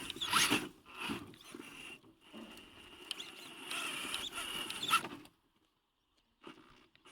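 Big RC crawler truck driving over rough ground: the electric drivetrain whines in uneven bursts, with its tyres scrabbling. It cuts off suddenly about five seconds in, then gives two short bursts near the end.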